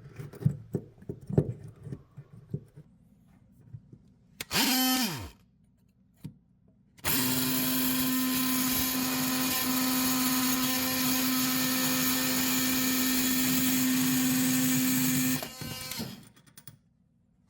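Handheld electric power tool run in a short burst that winds down, then run steadily for about eight seconds before stopping, after a few light knocks of handling.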